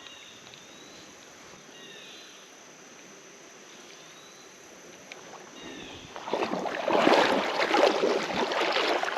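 Quiet creek-side ambience with a few faint, brief bird chirps, then from about six seconds in, loud, irregular water splashing and sloshing close by.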